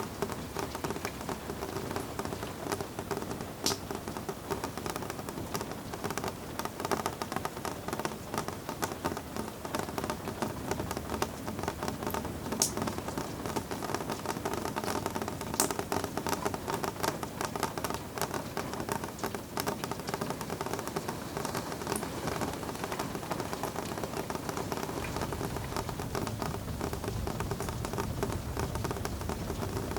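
Steady rain pattering, a dense hiss of fine drop ticks with a few sharper, louder drops. A low rumble swells in the last few seconds.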